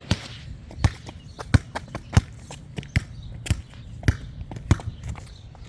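A soccer ball bouncing repeatedly, about eight firm bounces roughly two-thirds of a second apart, with a few lighter knocks between them.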